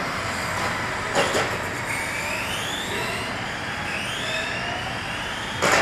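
Battery-powered radio-controlled cars running on a race track, their motors whining up and down in pitch as they speed up and slow down. Two sudden loud noises cut in, about a second in and again near the end.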